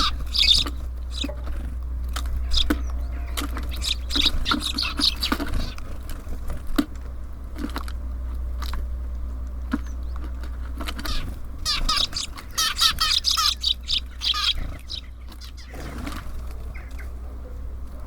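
Small birds chirping at a bird feeder in quick high bursts, twice in clusters lasting a couple of seconds, with scattered short clicks from birds pecking and landing. A steady low hum runs underneath.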